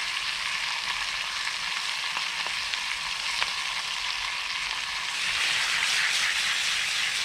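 Beef burger patties and onions sizzling in oil in a pan, with a few small pops; the sizzle swells a little about five seconds in.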